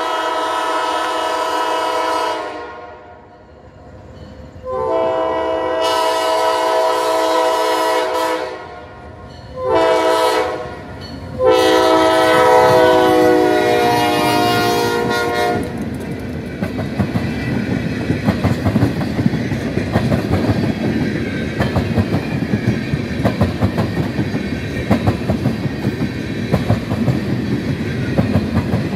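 Diesel locomotive's multi-chime air horn sounding two long blasts, a short one and a long one, the standard grade-crossing signal, as the train comes up. After that a long train of tank cars rolls past, its wheels clicking steadily over the rail joints.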